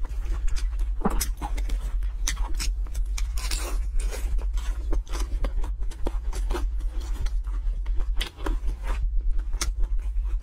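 Close-miked chewing of fried pastry and fatty braised pork belly: irregular wet smacks and crisp clicks follow one another a few times a second, over a steady low hum.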